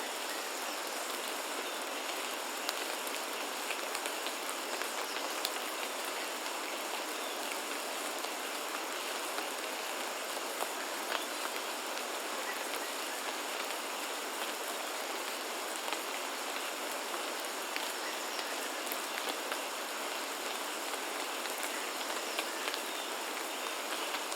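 Steady rain falling on foliage and ground, an even hiss with scattered individual drop ticks, and a faint steady high-pitched tone behind it.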